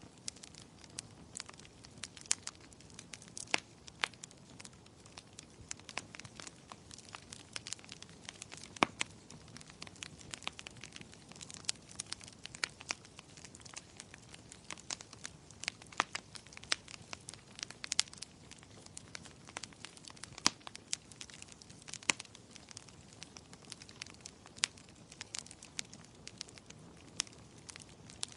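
Wood fire burning in a fireplace, crackling steadily with frequent sharp irregular pops and snaps from the burning logs.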